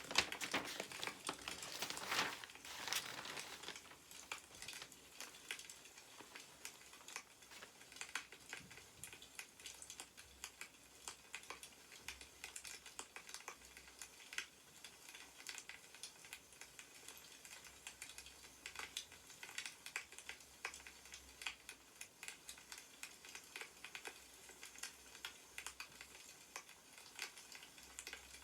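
Newspaper pages rustling and crinkling for the first few seconds, then a wood fire crackling with scattered small pops.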